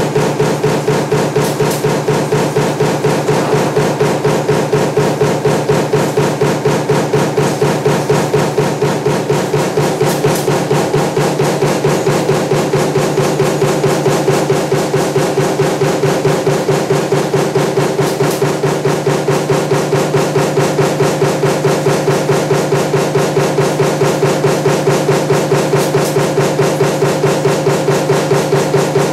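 Power press running a stamping die for table fan motor parts, striking in a rapid, even rhythm of several strokes a second over a steady machine hum.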